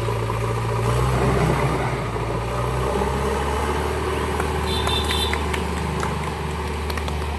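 Diesel engine of a heavy machine idling steadily with a low hum; one of its tones drops away about three seconds in, and a brief high whine is heard around five seconds in.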